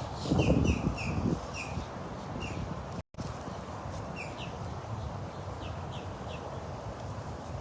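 Birds chirping, short falling calls repeated in quick runs, over an outdoor background. A louder low rumble in the first second or so. The sound cuts out for a moment about three seconds in.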